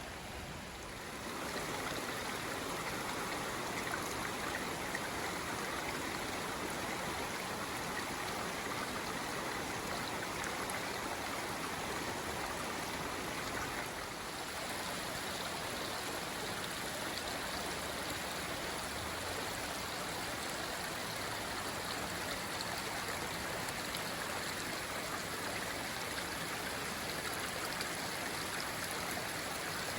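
Stream or small river flowing, a steady rush of water with no machinery noise.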